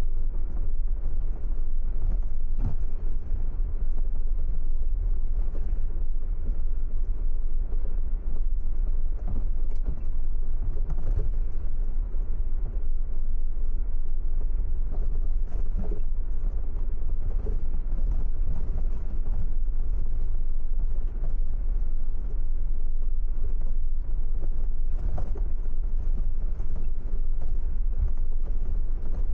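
Steady low rumble of a car driving, with road and tyre noise and faint light ticks now and then.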